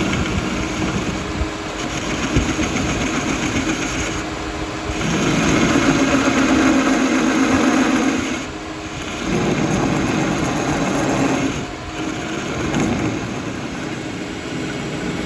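A workshop machine running steadily. It grows louder and heavier for two stretches of a few seconds, about five and nine seconds in, then drops back.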